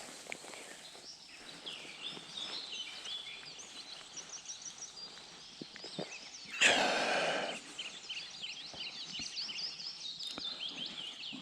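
Small birds singing, with many short rapid chirps and trills throughout. About seven seconds in there is a burst of noise lasting about a second, the loudest sound here.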